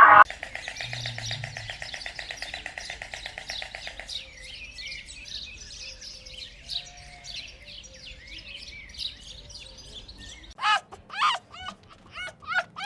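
Birds calling and chirping: a fast, even trill at first, then scattered high chirps. About ten and a half seconds in, a louder run of repeated calls begins, each sweeping down in pitch.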